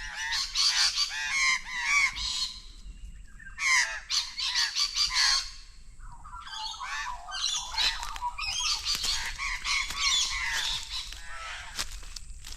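A flock of bush birds giving alarm calls over one another in rapid bursts, mobbing what they take for a snake, which is in fact a snake-necked turtle on the ground. There is a short lull about three seconds in, and then the calling resumes.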